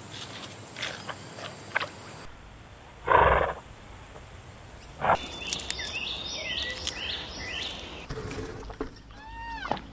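A series of animal calls: a loud call about three seconds in, then a run of short falling chirps, and a few falling calls near the end.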